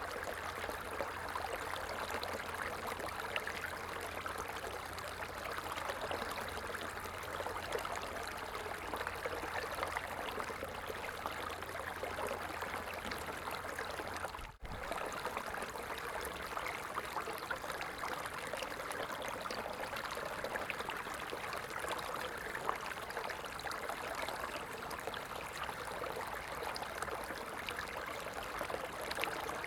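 A stream flowing, with a steady rushing and trickling of water. There is a split-second dropout about halfway through.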